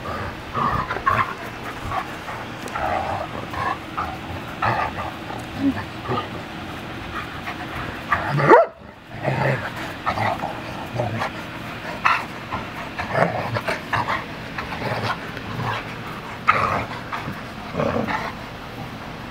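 Dogs playing rough, with short irregular barks and other dog noises coming in quick, uneven bursts, and a brief gap about halfway through.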